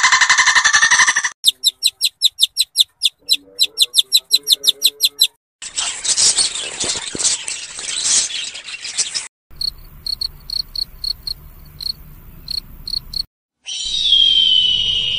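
A string of short animal-call clips, one after another: a dense burst, a few seconds of rapid chirps at about six a second, a hissing screech, more sharp chirps, and near the end a long falling cry.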